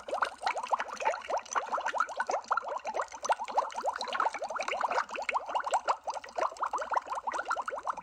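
Water bubbling: a dense, continuous stream of bubbles, each a quick upward-sliding blip.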